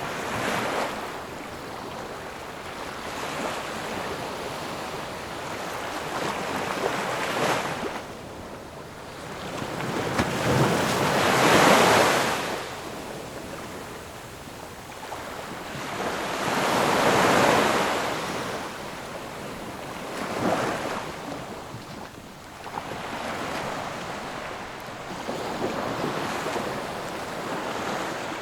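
Ocean waves breaking and washing ashore, each wave swelling to a rush and fading, with the biggest ones about 12 and 17 seconds in.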